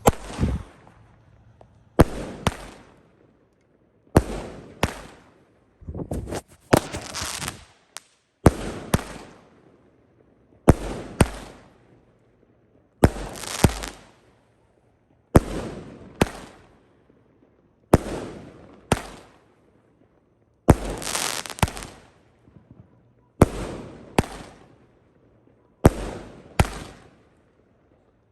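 A 16-shot consumer firework cake (Tropical Storm) firing one shot about every two seconds. Each shot is a sharp bang from the tube followed by a burst that fades over about a second.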